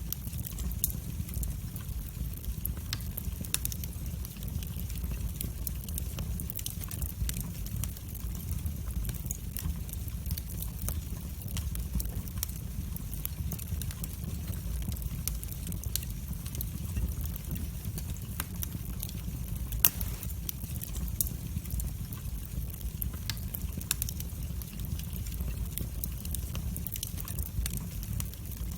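Wood fire burning in a fireplace: a steady low rumble of flames with frequent sharp crackles and pops, one louder pop about twenty seconds in.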